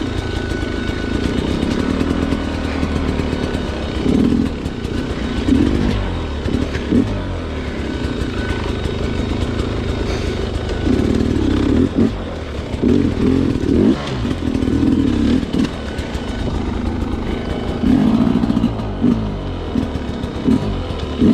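Sherco two-stroke dirt bike engine ridden at low speed, the revs rising and falling in repeated short throttle bursts, with the engine running lower between them.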